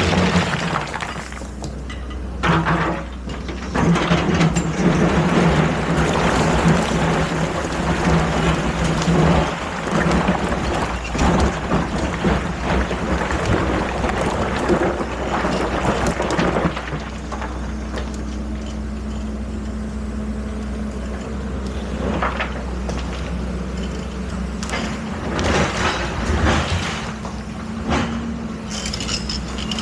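Excavator's diesel engine running steadily, with repeated bursts of clattering noise from the machine working, heaviest in the first half. About halfway through, the engine note steps slightly higher and holds there.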